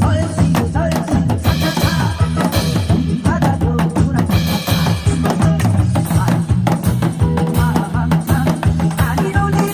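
Janggu (Korean hourglass drum) beaten in quick, dense strokes along with a recorded song's instrumental backing.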